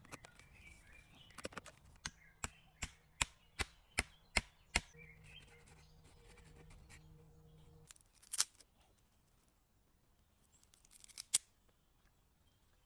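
A run of about eight sharp, evenly spaced knocks, two or three a second, like chopping or cutting strokes, then a louder single knock and two more spaced out later.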